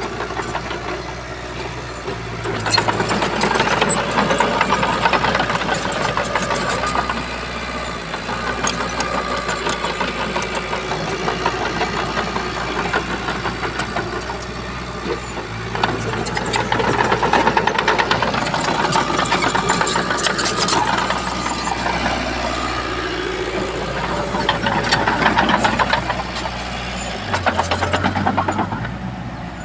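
Shantui bulldozer's diesel engine running steadily and swelling louder three times as it works under load, with a rattling clatter through it.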